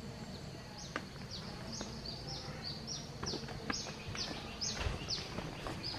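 A bird calling a quick series of short, high chirps that each slide downward in pitch, about two a second, over a steady hum of insects.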